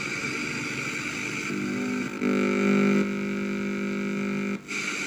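Sony Trinitron CRT television's speaker giving out a steady, buzzy, unclear sound, the sign of its audio fault. It grows louder for about a second near the middle and breaks off briefly near the end.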